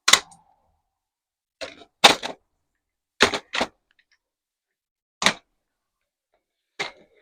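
About seven sharp, hard knocks and clacks at irregular intervals, two of them close together near the middle. They come from freshly set pewter being worked out of its casting mold.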